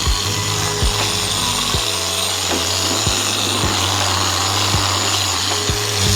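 Background music with a steady bass beat, over the continuous hiss of a handheld power tool sanding or polishing a plastic headlight lens.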